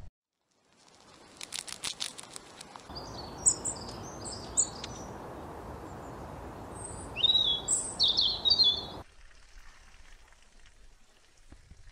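Long-tailed tit giving short, high chirps in two quick clusters over a steady outdoor hiss, with a run of sharp clicks just before.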